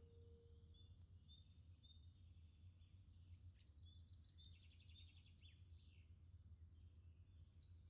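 Near silence with birds faintly chirping: scattered short high chirps and a quick trill about halfway through, over a low steady hum.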